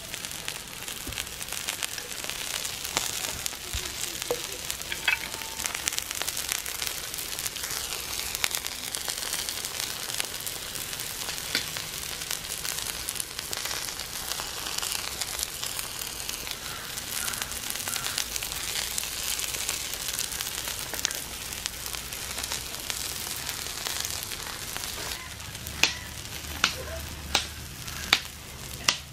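Coconut oil sizzling on a flat iron griddle over a wood fire, with a whole giant prawn and vegetables frying in it: a steady sizzle, with a few sharp pops near the end.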